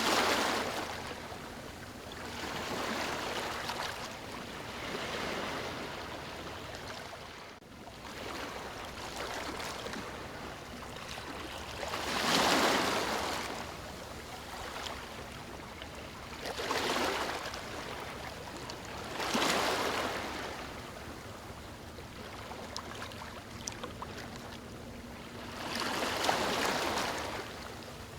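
Rushing water with no pitch of its own. It swells and ebbs in surges every few seconds, loudest about twelve seconds in and again near the end.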